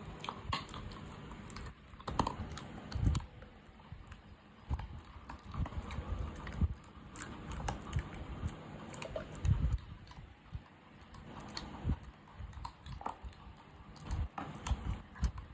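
An animal chewing mutton: irregular wet clicks and soft thumps of its jaws and teeth working on the meat.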